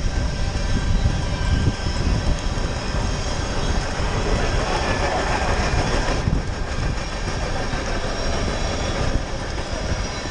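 Freight train rolling past on its tracks: a steady rumble with the clatter of the cars, swelling about halfway through, mixed with wind rushing over the microphone of the moving rider.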